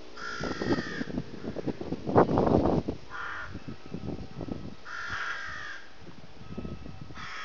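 Four short, harsh bird calls spaced about two seconds apart, with a loud noisy clatter between the first and second calls.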